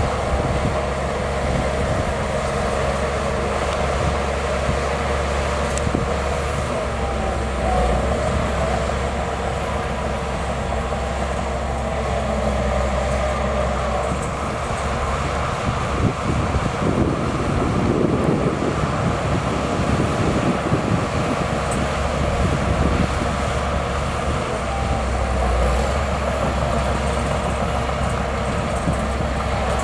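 Bulldozer's diesel engine running steadily under load, with a strong low hum, getting louder and rougher for a few seconds in the middle.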